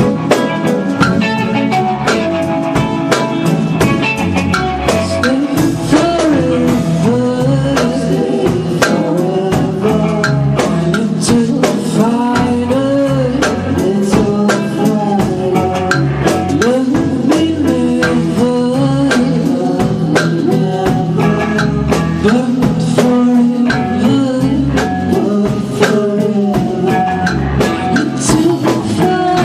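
Rock band music with a singer, drum kit and guitars playing steadily.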